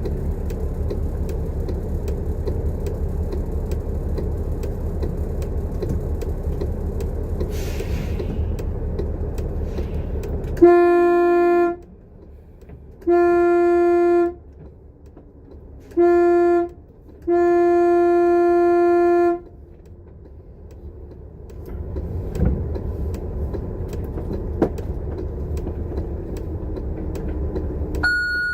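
Bus running on the road. About eleven seconds in, a vehicle horn gives four steady blasts of one pitch, the third short and the last the longest, while the road noise drops away under them. The bus noise then builds back.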